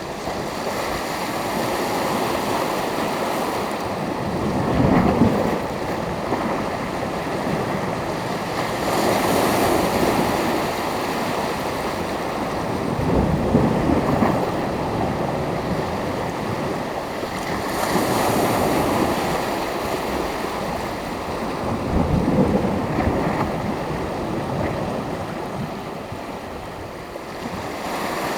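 Sea waves breaking on the shore, the surf swelling and falling back about every four to five seconds over a steady wash.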